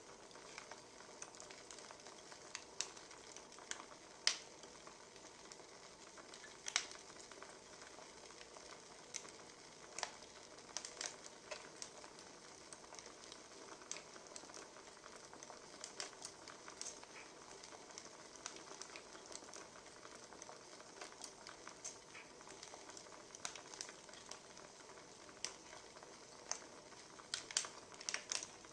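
Wood fire crackling: a steady soft hiss with irregular pops and snaps, a few of them sharper.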